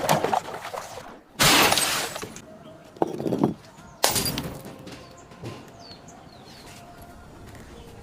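Glass bottles smashing and shattering in a series of crashes. One comes right at the start, the loudest about a second and a half in, smaller hits around three seconds, and another at four seconds that trails off into quieter tinkling.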